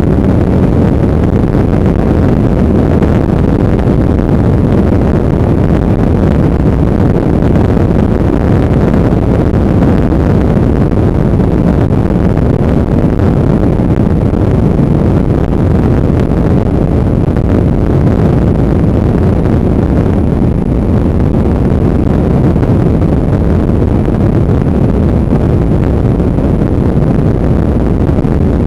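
Motorcycle on the move, its engine running under heavy wind noise on the microphone, steady and loud.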